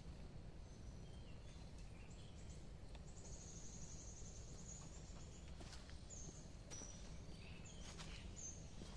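Faint forest birdsong: birds chirping and giving short high whistles, with one longer high trill a few seconds in, over a low steady rumble. A couple of soft clicks near the end.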